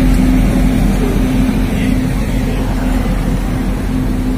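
Express train coach rolling slowly through a station, heard at the open coach doorway: a loud, steady low rumble with a steady low hum.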